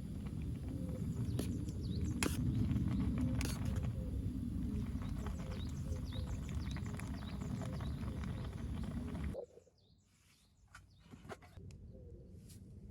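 Outdoor ambience: a steady low rumble with a few short bird chirps over it. It cuts off abruptly about nine seconds in, leaving a quieter background with scattered small clicks.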